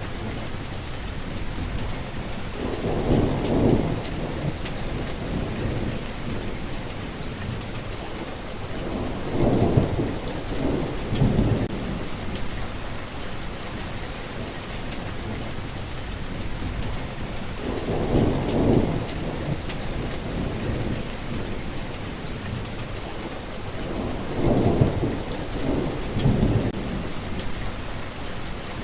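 Steady rain falling in a thunderstorm, with rolling thunder rumbling up and fading four times, roughly every seven seconds.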